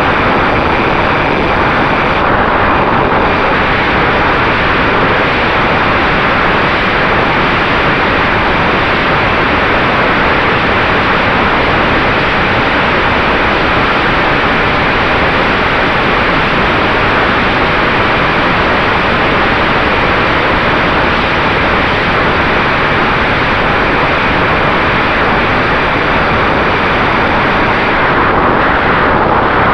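Loud, steady rushing wind noise on the microphone of a Mini Talon RC plane's flight footage, with a faint steady tone underneath.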